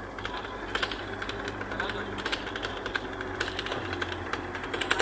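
Train in motion: a steady low rumble with many quick, irregular clicks and rattles.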